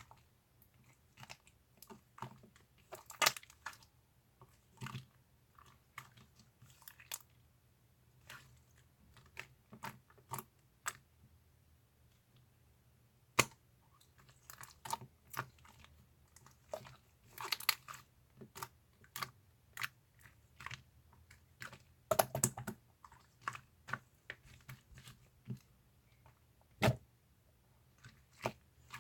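Slime being pressed and squished by hand, giving irregular sharp clicks and crackling pops, with a few louder snaps among them.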